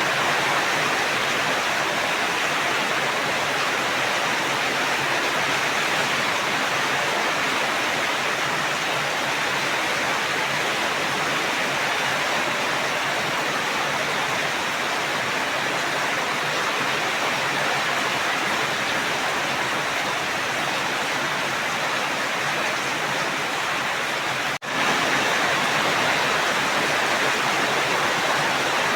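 Steady rain, an even unbroken hiss of falling water, with a split-second dropout about three-quarters of the way through.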